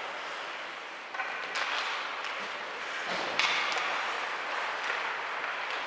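Ice hockey game sounds in a rink: a steady hum of crowd and skating noise with several sharp knocks of sticks and puck, the loudest about three and a half seconds in.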